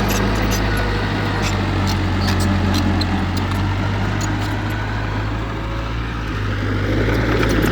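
Heavy machinery diesel engine running steadily, with scattered light clicks and knocks over it; it grows a little louder near the end.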